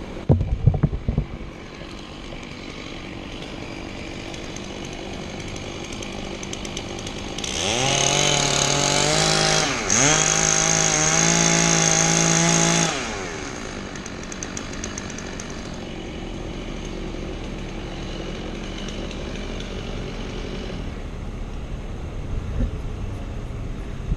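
A two-stroke chainsaw opens up to full throttle about seven seconds in and holds there for about five seconds, with a short dip near the middle, then drops back to a low running sound.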